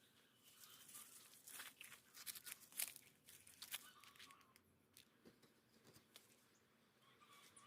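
Faint crackling and tearing of plant material being handled, a quick cluster of snaps and rips about one to four and a half seconds in, then a few soft ticks.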